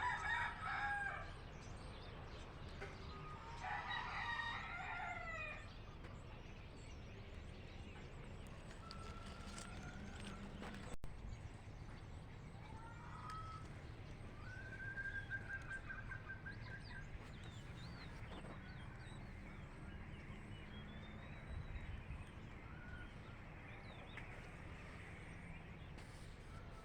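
Rooster crowing twice, once at the very start and again, longer, about four seconds in, with the call falling away at its end. Fainter short bird calls and chirps follow over a steady low background rumble.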